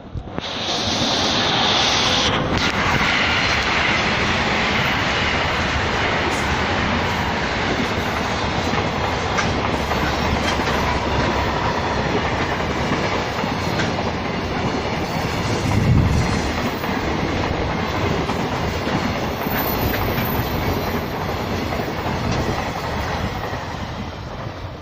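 A train passing close by at speed. The loud rush of its wheels on the rails sets in suddenly, runs steadily with one heavier thump about two-thirds of the way through, and dies away at the very end.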